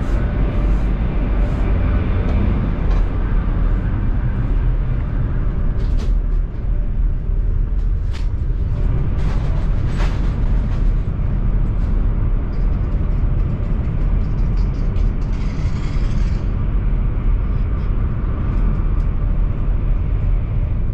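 Interior running noise of a Chinese high-speed bullet train: a steady low rumble, with scattered clicks and knocks and a brief hiss about fifteen seconds in.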